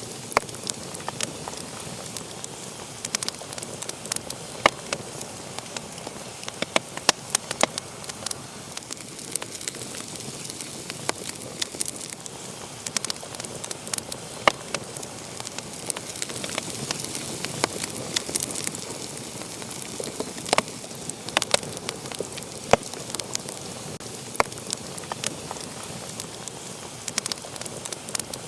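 Wood fire burning in a fireplace: a steady hiss with irregular sharp crackles and pops throughout.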